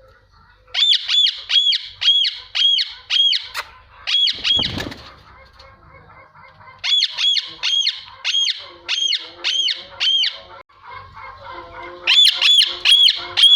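Rose-ringed parakeets screeching: runs of shrill, evenly repeated calls, about three a second, in three bouts, with softer chatter between them.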